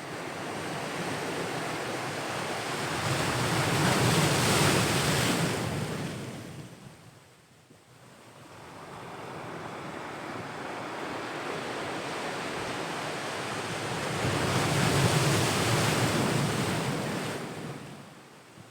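Ocean waves breaking on the shore, two in turn: each swells to a loud crash and fades away, with a short lull between them.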